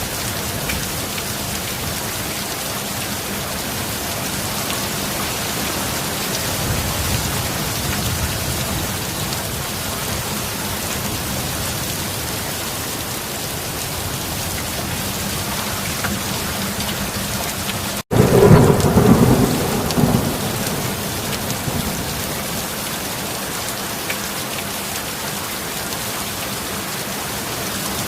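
Steady heavy rain with a low rumble of thunder swelling a few seconds in. About eighteen seconds in, the rain cuts out for an instant, then a loud thunderclap breaks and rumbles away over about two seconds.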